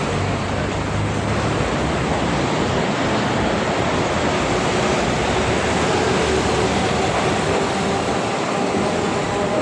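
Steady street noise of traffic on a rain-wet road, with a faint steady tone from a vehicle coming in about halfway through.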